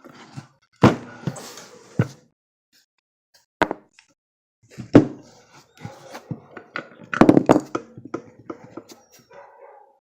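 Irregular sharp knocks and clatter of hard objects being handled, loudest a little under a second in, about five seconds in, and in a quick cluster about seven seconds in.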